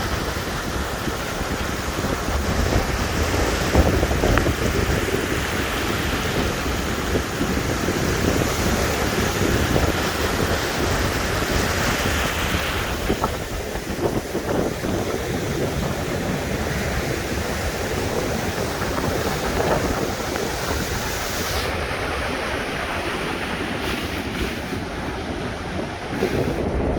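Rough Baltic Sea surf, waves breaking and rushing steadily, with strong wind buffeting the microphone.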